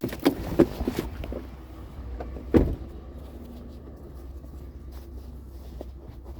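Vehicle engine idling steadily, with a few knocks in the first second and a heavier thump about two and a half seconds in, from a picked-up curbside item being handled.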